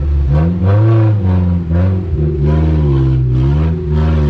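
Chevrolet Tracker SUV's engine revving hard, its pitch rising and falling several times as it is driven out through deep mud.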